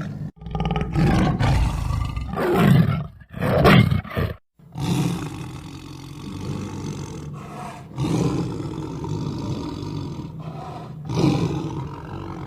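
Tiger roaring and growling: a series of deep, rough roars, several cut off abruptly in the first few seconds, then longer growling calls.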